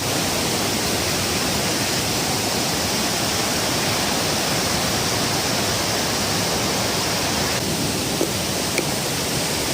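Steady rush of water pouring over the dam into a waterfall.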